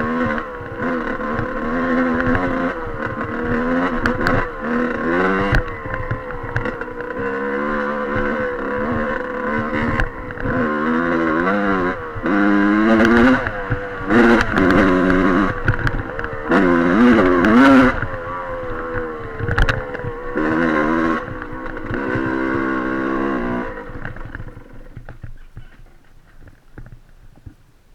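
Dirt bike engine being ridden, revving up and down repeatedly with the throttle, then falling away to a much quieter level near the end.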